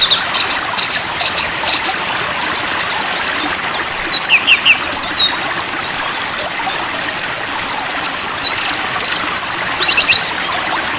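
A songbird sings over a steady rushing sound of flowing water like a stream. Fast ticking notes come first, then, from about four seconds in, clear whistled notes that swoop up and down, mixed with short quick trills.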